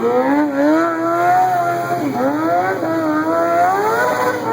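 Small high-revving engine revving up and down as a stunt vehicle is ridden. Its pitch climbs, drops sharply about two seconds in, then climbs again.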